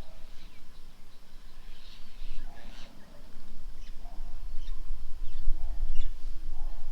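Several birds calling: quick, high chirps, some sliding down in pitch, with a lower call recurring every second or so, over a steady low rumble.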